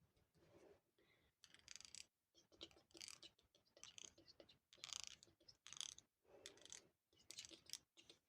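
Soft, close-up scratching and rustling in short irregular strokes, roughly one or two a second.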